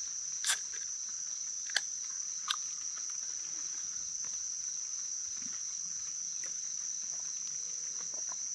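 Steady high-pitched chorus of crickets or other insects. Three short sharp clicks come in the first few seconds.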